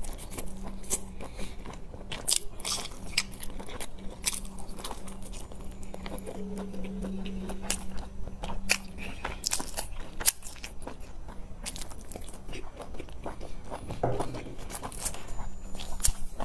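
A person biting and chewing crunchy food close to the microphone, with many sharp, irregular crunches.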